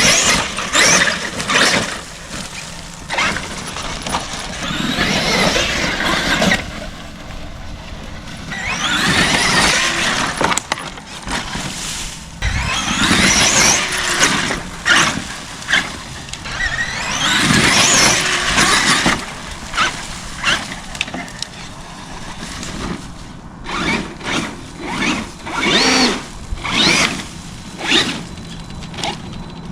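Traxxas Xmaxx RC monster truck's electric motor whining in repeated throttle bursts, each rising in pitch, with shorter bursts near the end. Knocks and clatter of the truck over rough ground come between the bursts.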